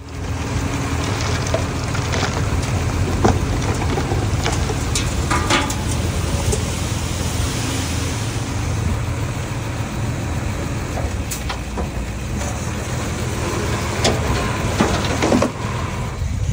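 Small bulldozer's diesel engine running steadily under work, with scattered sharp knocks and clatter through the run.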